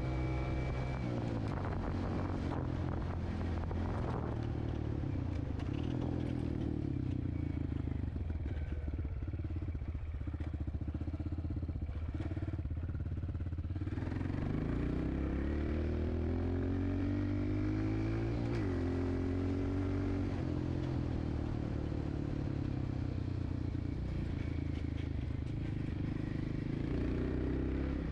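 Dirt bike engine running as the bike is ridden, its pitch falling and climbing with the throttle; the revs rise steadily in the middle and drop suddenly a little later, as in a gear change.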